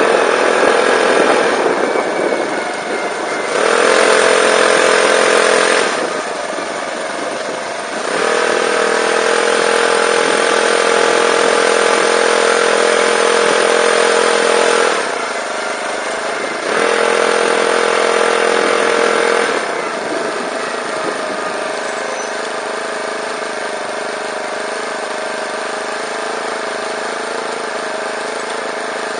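Small Golden Eagle bicycle-kit engine on a recumbent trike running, opened up three times for a few seconds each, dropping back between, then settling to a steady lower idle for the last third.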